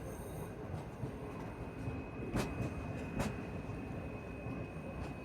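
Passenger train running slowly, heard from inside the coach: a steady low rumble, with two sharp clicks a little under a second apart about two and a half seconds in.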